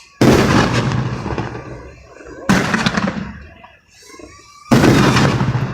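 Three firework explosions about two seconds apart, each a sudden loud bang that rumbles away over a second or two.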